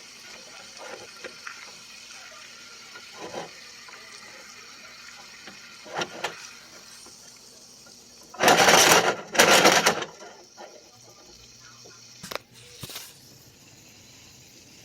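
Pan of sautéed squash and chard sizzling faintly, with a few light clicks and two short, loud rushes of noise a little past halfway.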